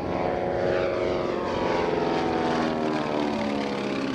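Beech C-45 Expediter's twin Pratt & Whitney R-985 Wasp Junior radial engines running in flight, a steady propeller drone whose pitch slowly falls as the plane passes.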